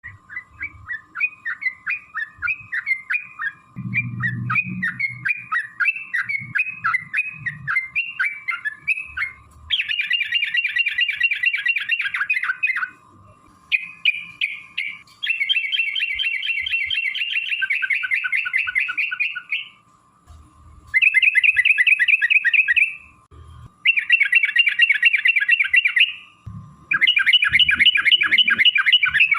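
Yellow-vented bulbul (trucukan) song: a string of quick separate chirping notes at first, then, from about ten seconds in, long rapid rolling trills ('ropel') lasting a few seconds each with short pauses between them.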